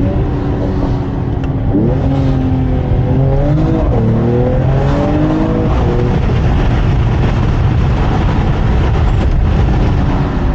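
Mercedes-AMG E53's 3.0-litre inline-six accelerating on the road, still on its stock catted downpipe. The engine note climbs, drops at upshifts about two and four seconds in, then settles after about six seconds into a steady drone of engine and road noise.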